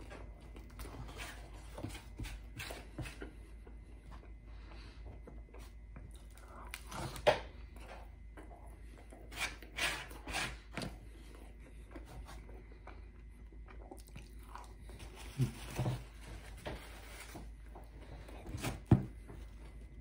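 Close-up chewing and biting of pepperoni pizza, with mouth sounds and a few louder sharp clicks and knocks scattered through.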